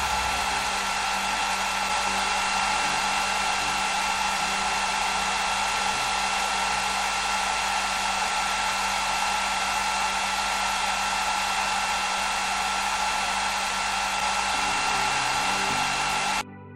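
Hair dryer running steadily, a loud rush of air with a steady whine, as it blows poured fluid acrylic paint across a canvas in a Dutch-pour blow-out. It cuts off suddenly near the end.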